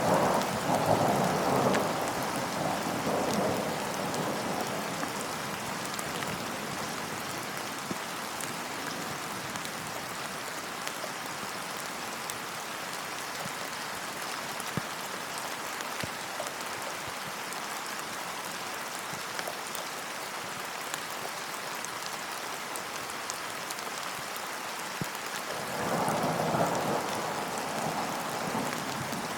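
Steady rain falling, with a roll of thunder in the first few seconds and another near the end.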